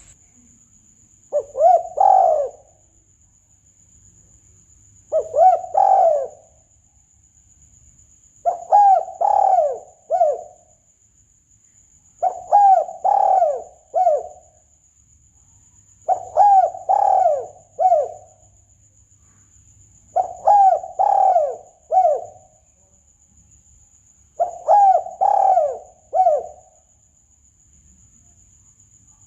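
Spotted dove (tekukur) cooing, a lure call repeated about every four seconds: seven phrases of three or four coos each, the last note of each phrase set slightly apart. A faint steady high whine runs underneath.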